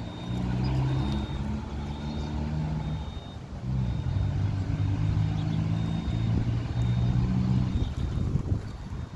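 An engine running, its low hum stepping up and down in pitch, with a short high-pitched beep repeating about once a second.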